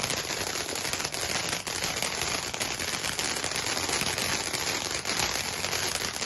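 A lit firework crackling and hissing steadily, a dense rapid patter of small pops with no single loud bang.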